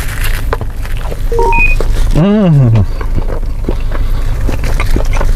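A person chewing a bite of steak fajita quesadilla, with small wet clicks of the mouth, over the steady low hum of the idling car. A short electronic beep comes about a second and a half in, then a hummed "mmm" that rises and falls in pitch.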